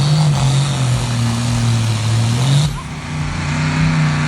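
Pulling-competition engine running hard at high revs with a steady drone whose pitch wavers and rises slightly. About two and a half seconds in, the hissy upper part of the sound drops away suddenly while the engine keeps running.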